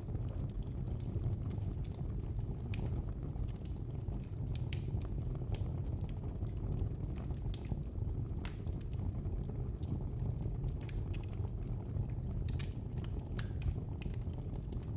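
Fireplace fire crackling: irregular sharp pops and snaps scattered over a steady low rumble of burning flames.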